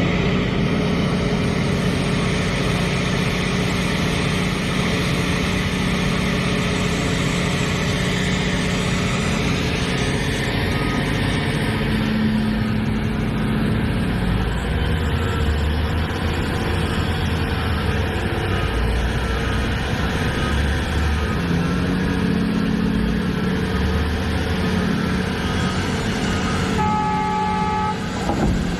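Liebherr hydraulic excavator's diesel engine running steadily, its note shifting under load as the machine works, with a brief higher horn-like tone near the end.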